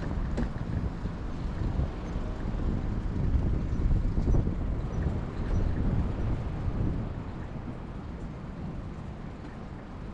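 Road traffic heard from a bicycle on a city street: a low, noisy rumble that swells in the middle as vehicles pass close, then eases off after about seven seconds.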